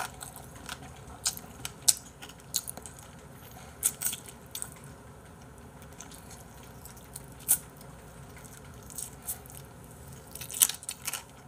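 Close-miked chewing of spicy braised chicken, with irregular short wet clicks from the mouth and a quieter pause about halfway through.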